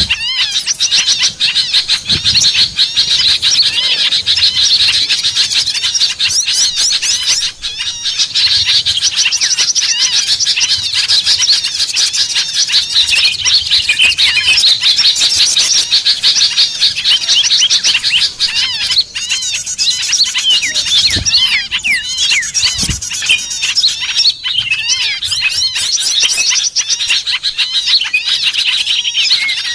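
Bird-lure recording of many small songbirds calling at once: a dense, continuous chatter of rapid high chirps and trills with no pause.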